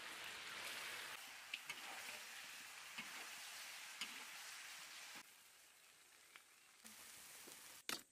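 Chicken and green chilli peppers sizzling in a wok, with a few light clicks of a metal spatula against the pan. The sizzle drops quieter about five seconds in.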